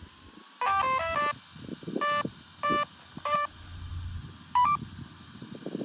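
RC car's electronic speed controller sounding its power-up tones as the battery is plugged back in: a quick run of stepping beeps, then three single beeps about two thirds of a second apart, and a short double beep near the end.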